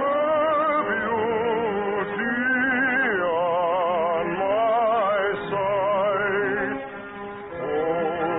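Operatic singing with strong vibrato over an orchestra, long held notes sliding up and down between phrases.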